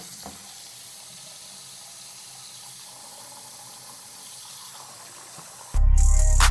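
Kitchen tap running steadily into a sink while raw chicken is rinsed. Loud music with a heavy bass cuts in suddenly near the end.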